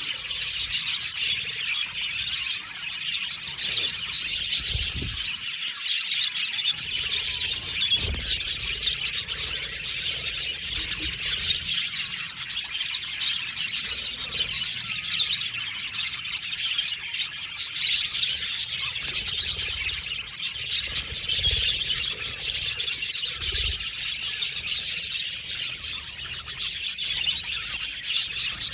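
A flock of budgerigars chattering and chirping, many quick high calls overlapping without a break.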